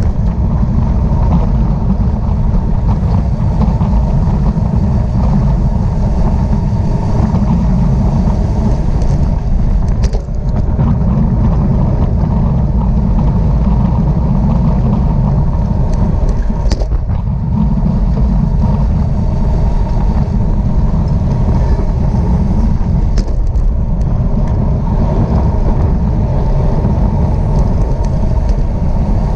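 Wind rushing over the microphone of a camera riding with a racing bicycle at speed: a loud, steady rumble with no break except a brief dip about ten seconds in.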